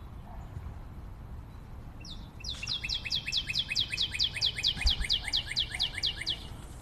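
A bird calling a rapid run of short whistled notes, each sliding downward, about five a second, starting about two seconds in and lasting about four seconds.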